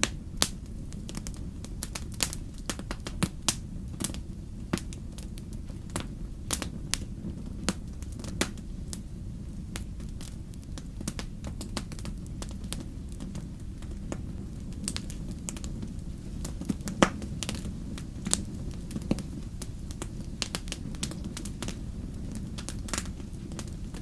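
Wood fire burning in a fireplace: a steady low rumble of flames with frequent sharp, irregular crackles and pops, one louder pop about seventeen seconds in.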